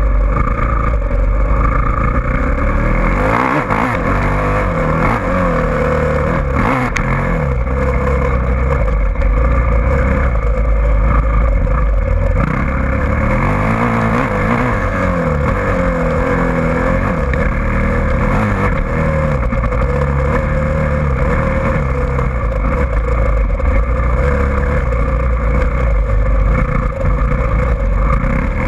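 Dirt bike engine revving up and down again and again as the bike is ridden, with a few short knocks early on.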